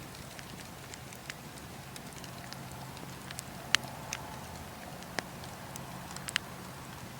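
Bonfire crackling: burning wood giving irregular sharp pops and snaps over a steady low hum, the loudest pop about halfway through.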